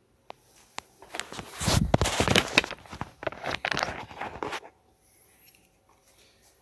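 A cable connector being worked loose and pulled from the HP 3458A multimeter's circuit board by hand: a dense run of clicks, scrapes and rustles lasting about three and a half seconds, then it stops.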